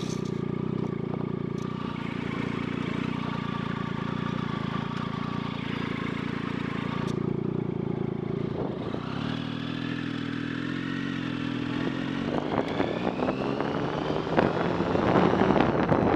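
Motorcycle engine running steadily under way. About nine seconds in it drops in pitch, then climbs again as it accelerates through a gear change. Wind buffeting on the microphone grows louder near the end.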